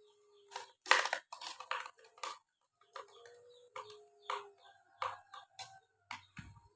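Handling noise: a run of sharp crackles and rustles, densest about a second in, then sparser taps and crackles, with faint thin bird-like calls in the background.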